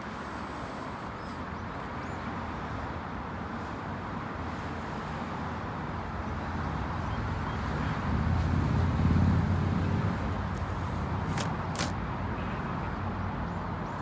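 Steady motor-vehicle noise with a low engine rumble that swells about eight seconds in and eases off after ten seconds. Two short sharp clicks follow soon after.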